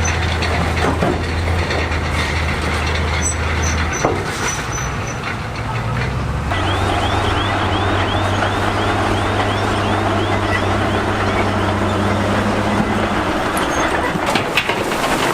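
Heavy diesel earthmoving machinery running with a steady low engine drone. From about six seconds in the engine noise rises, with a high squeal repeating about twice a second.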